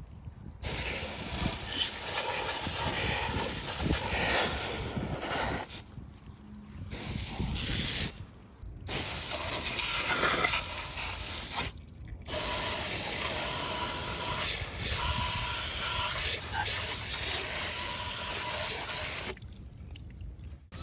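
Water spraying from a wash nozzle onto a muddy minibike, in long stretches cut off by a few short pauses and a longer stop near the end.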